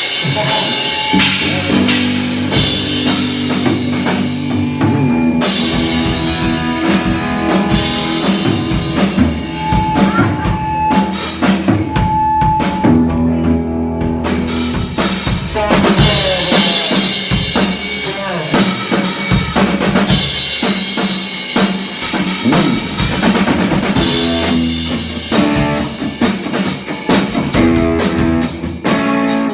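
A live band playing, with a drum kit to the fore: kick drum and snare hits over sustained bass notes. The high end gets busier about halfway through.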